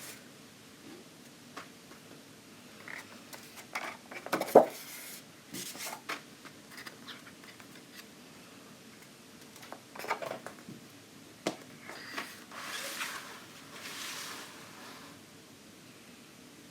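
Thick, card-like coloring-book pages being turned and handled: scattered soft taps, rustles and paper scrapes, with a sharper tap about four and a half seconds in and a couple of longer swishes of paper sliding past near the end.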